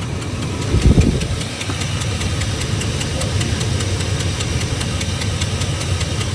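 GM 4.8 L LS V8 idling with a steady, even ticking, about five ticks a second, and a louder low thump about a second in. The engine is misfiring, and the owner suspects the coil packs.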